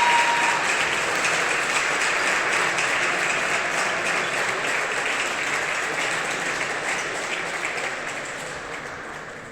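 Audience applauding in a table tennis hall, loud at first and fading away gradually.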